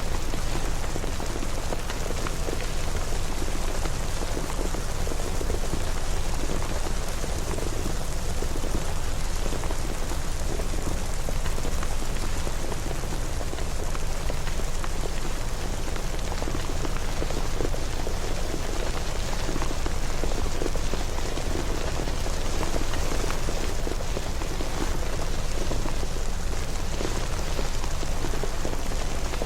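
Steady rain falling and pattering on surfaces, an even hiss of dense drops with a low rumble underneath, unchanging throughout.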